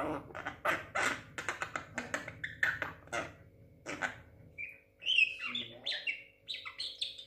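Javan myna calling: a rapid run of short, harsh, clicking notes, then higher whistled chirps from about five seconds in.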